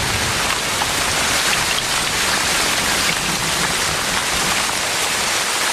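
Heavy tropical rain pouring down steadily in a dense, even hiss.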